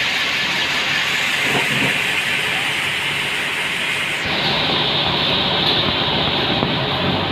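Sawmill saw cutting through a large trembesi log: a loud, steady hissing whine. About four seconds in the sound changes abruptly and its highest part drops away.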